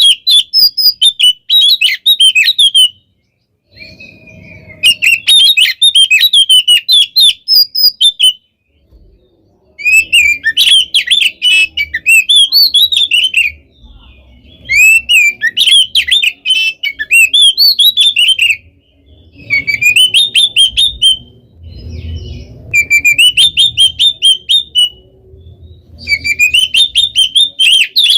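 Oriental magpie-robin (kacer) singing loudly in quick bouts of rapid, varied notes and trills. There are about seven bouts, each a few seconds long, with brief pauses between them.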